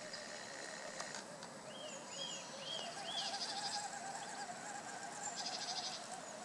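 Songbirds calling: four short rising-and-falling whistled notes about two seconds in, then two buzzy trills. Under them runs the faint wavering whine of the RC crawler's electric motor and gears.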